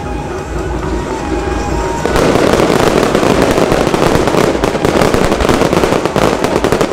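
Fireworks show: a lighter spell of bursts, then about two seconds in a sudden, dense barrage of rapid crackling bangs that keeps up.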